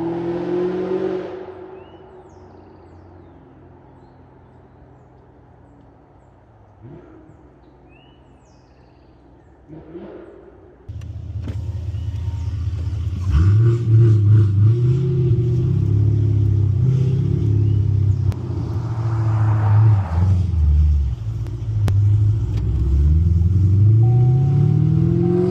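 Supercharged Camaro ZL1 V8 exhaust: a pass fades away in the first second or two, then the engine cuts in loudly about 11 seconds in, its pitch climbing and dropping several times as it accelerates.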